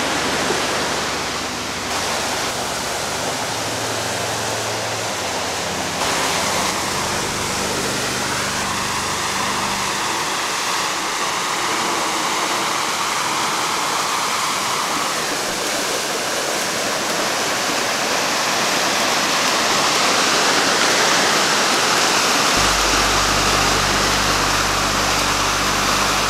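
Rushing water of a river in flood, running very high: a steady, even roar of water noise. Near the end a low steady hum sets in beneath it.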